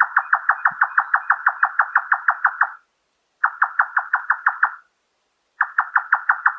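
A nightjar calling: a rapid series of short, evenly repeated notes, about seven a second. It comes in runs broken by brief pauses, a short run in the middle and a new run starting near the end.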